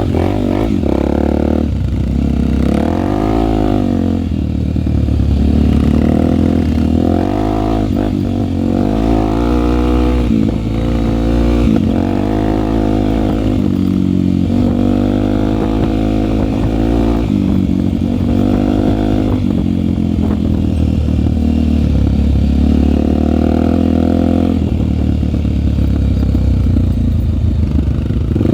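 Single-cylinder four-stroke Honda trail bike engine under way, its pitch rising and falling again and again as the throttle is opened and closed through the gears, with a few short knocks.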